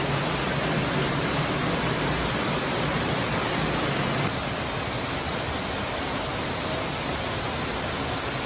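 Waterfall rushing: a steady, dense hiss of falling water, a little quieter from about four seconds in.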